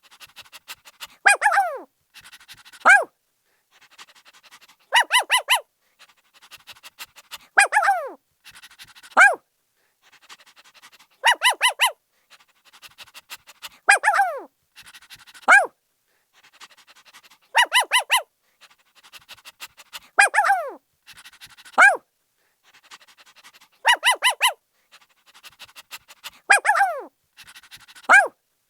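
Puppy barking in high-pitched yips. Quick runs of three or four short yaps alternate with single yelps that fall in pitch, with soft panting between them, in a steady pattern repeating every few seconds.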